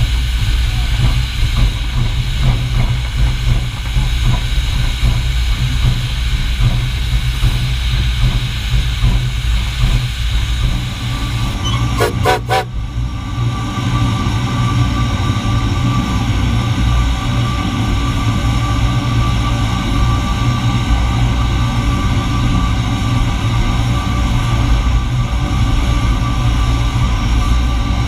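Reading & Northern 425, a 4-6-2 steam locomotive, working its train: a loud, steady, heavy rumble. The sound changes suddenly about twelve seconds in.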